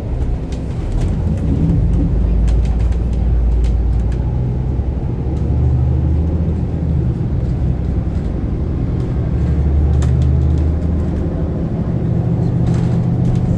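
Bus engine and drivetrain heard from inside the passenger cabin: a low, steady drone that shifts in pitch as the bus changes speed, with occasional light rattles.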